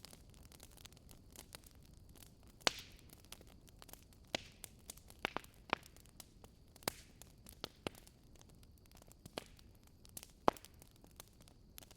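Wood fire crackling in a fireplace: irregular sharp pops and snaps over a faint low hiss. The loudest snaps come about three seconds in and again near the end.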